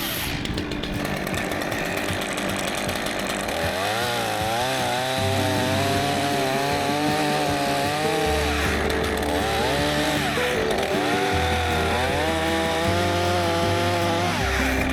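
A chainsaw revving up and down repeatedly as it cuts, starting about four seconds in, over background music with a stepped bass line.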